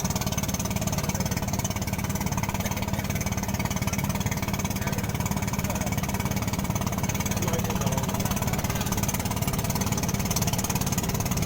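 A small engine running steadily with a fast, even rattling pulse.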